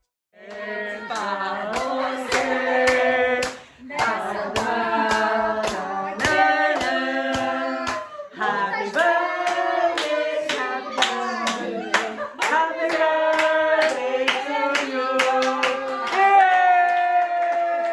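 Several voices singing together in a steady rhythm, accompanied by hand clapping about twice a second. The song breaks off briefly twice and then goes on.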